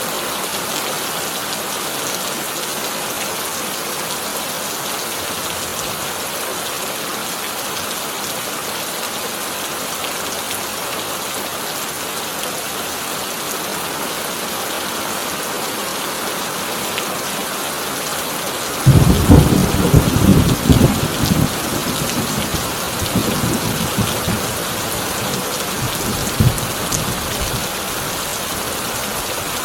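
Heavy rain drumming steadily on a corrugated tin roof; about two-thirds of the way in a sudden loud thunderclap breaks out and rumbles on for several seconds before fading back under the rain.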